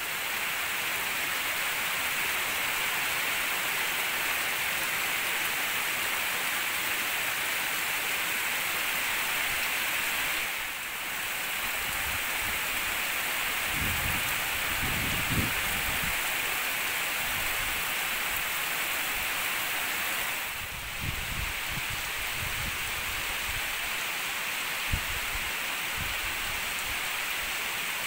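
Heavy downpour: a steady hiss of hard rain, with a few brief low rumbles partway through.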